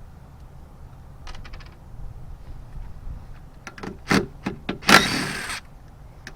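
Tools and metal hardware being handled while bolts come off a boat's drive: a few light clicks, then a run of sharp knocks, and a short, loud scraping clatter about five seconds in.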